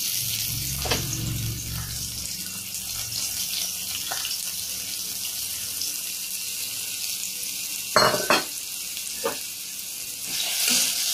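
Chopped carrots sizzling in hot oil in a kadai, with a few sharp knocks of a utensil against the pan, the two loudest about eight seconds in.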